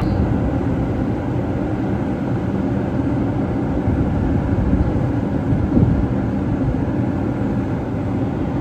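New York City subway train running along the track: a steady, heavy rumble of wheels on rail.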